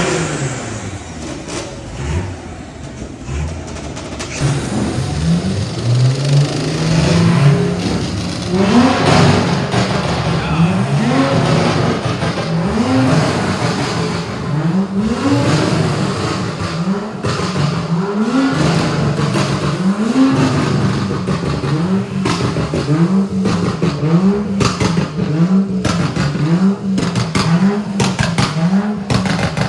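Car engine revved over and over in quick rising blips, about one a second, over a held engine tone. It starts a few seconds in and keeps going.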